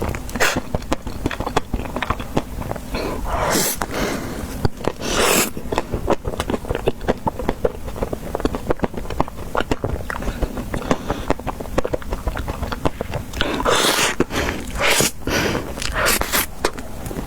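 Close-miked eating of ice cream: rapid small mouth clicks and chewing, broken by louder crunchy bites about four and five seconds in and again near the end.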